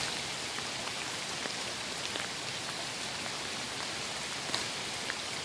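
Steady rain falling, a continuous hiss with sharp individual drops landing close by now and then.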